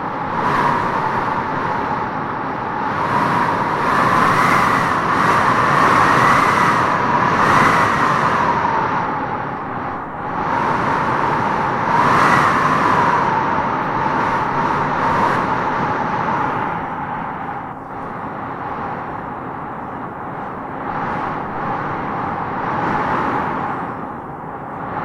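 Howling wind gusting through trees: a steady rush with a whistling howl that swells and eases in gusts, strongest about four to eight seconds in and again around twelve seconds.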